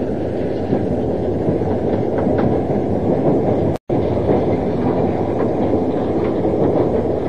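Passenger train running along the rails, a steady low rumble of wheels and carriage with occasional faint clicks. The sound cuts out completely for a split second about four seconds in.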